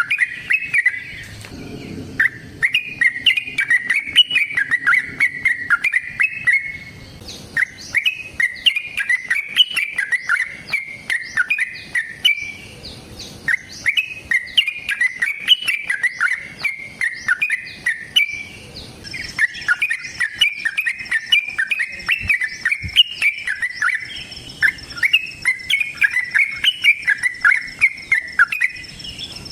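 Yellow-vented bulbul singing long runs of rapid, bubbly chattering notes, each run a few seconds long with brief pauses between. A steady high thin tone, like an insect, joins about two-thirds of the way in.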